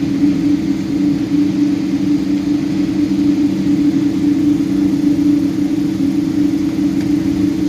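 Boeing 777-200 engines under power heard from inside the passenger cabin: a loud, steady drone with two held low tones over a continuous rumble.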